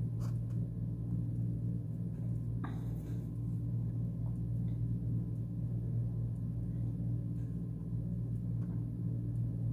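A steady low hum, with a couple of faint clicks about a third of a second and nearly three seconds in.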